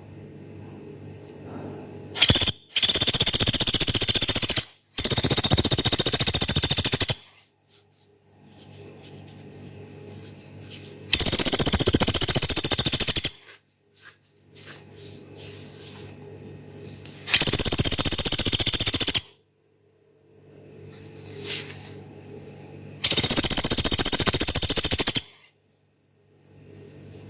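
Pelatuk beras woodpecker giving long, harsh rattling calls, each a very rapid run of notes lasting about two seconds. Two come back to back near the start, then one about every six seconds, with a low hum in the quiet between.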